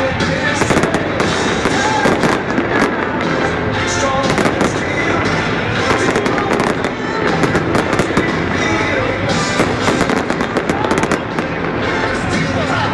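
A fireworks display: a rapid, continuous barrage of aerial bursts and crackling reports, with music playing underneath.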